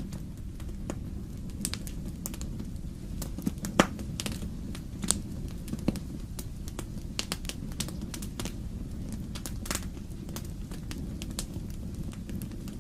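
Wood fire crackling in a fireplace: irregular sharp pops and snaps of burning logs over a steady low rumble, the loudest pop about four seconds in.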